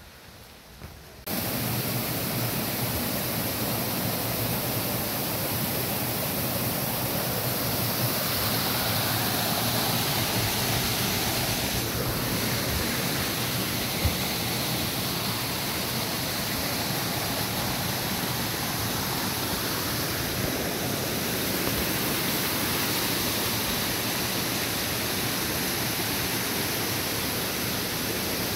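Steady rushing of a cascading waterfall, cutting in suddenly about a second in.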